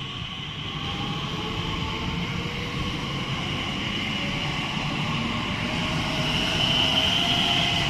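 A Class 345 Aventra electric multiple unit pulling away, its traction motors whining in several tones that climb slowly in pitch as it accelerates, over wheel and rail rumble that grows gradually louder. The spotter finds the motor sound screechy.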